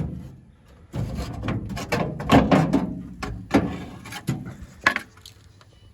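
Scraping and rattling with several sharp knocks as a fiberglass trim piece is worked loose and pulled off a pickup's rear fender.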